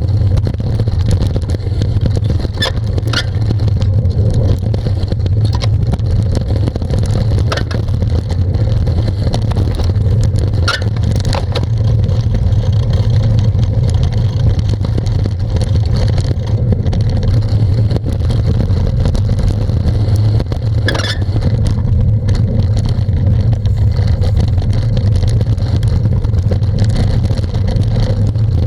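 Steady low rumble of wind and tyre noise picked up by a camera riding on a bicycle, with a few short clicks and rattles.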